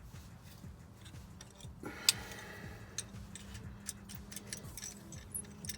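Scattered metallic clicks and light clinks of hand tools at work on a seized exhaust manifold bolt, with one sharp metal strike that rings briefly about two seconds in.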